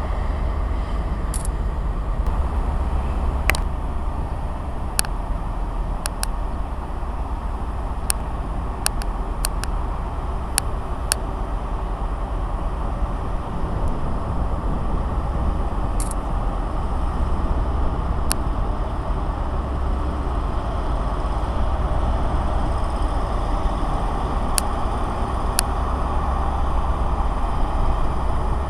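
A train running at a railway station: a steady rumble with irregular sharp clicks throughout.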